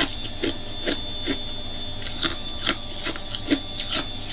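Hard ice being chewed, short crisp crunches about twice a second over a steady hiss.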